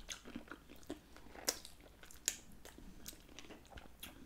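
Faint close-up eating sounds of cooked shrimp: chewing with small wet clicks and crackles as the shell is peeled. Two sharper clicks stand out, about a second and a half and two and a quarter seconds in.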